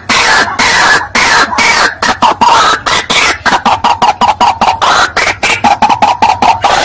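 White-breasted waterhen (ruak-ruak) calling loudly: a run of harsh, rasping croaks, about three or four a second at first, speeding up partway through into quicker, more tonal notes, about six a second. It is a lure call played to attract the bird.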